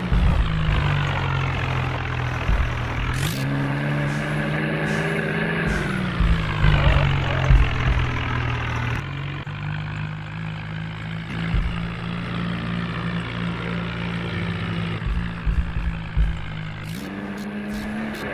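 Tractor diesel engine running, its speed rising about three seconds in, falling back, dropping lower about nine seconds in, and picking up again near the end, with a few louder low bumps along the way.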